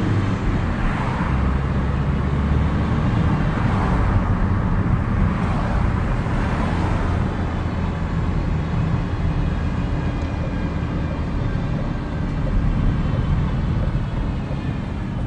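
Opel Astra H 1.9 CDTI diesel engine (120 hp) running steadily, with the strange engine noise that the owner is recording. It comes with a few swelling whooshes in the first half.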